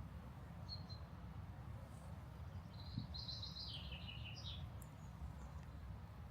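A bird sings a short, high, warbling phrase about three seconds in, after a single brief chirp near the start, over a steady low background rumble of open air.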